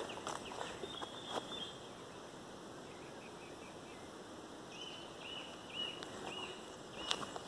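A songbird calling a row of about five short, arched whistled notes, roughly two a second, in the second half, with a brief higher whistle about a second in. Light footsteps on dry leaf litter are heard early on.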